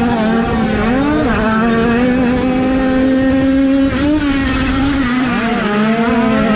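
Small 50cc two-stroke motocross bikes running at high revs, a steady high-pitched buzz. The pitch dips and climbs back briefly about a second in, again around four seconds in and near the end, as the throttle is eased and reopened.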